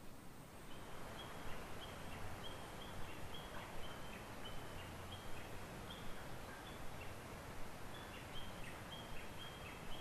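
Birds calling outdoors: many short, high chirps repeated irregularly, some dropping in pitch, over a steady background hiss that comes in about a second in.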